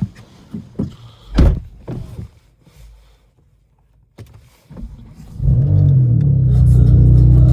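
A few thumps and clicks, then a BMW M4's twin-turbo inline-six with an Akrapovič exhaust cranks and fires on a cold start, flaring up in pitch and dropping back to a steady, loud high idle.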